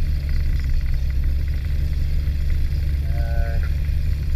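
A motor glider's piston engine idling steadily, heard from inside the cockpit.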